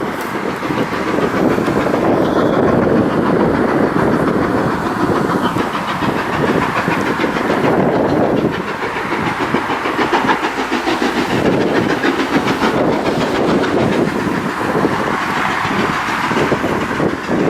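Steam-hauled train running past, the locomotive and its coaches making a continuous loud noise with a fast rhythmic beat.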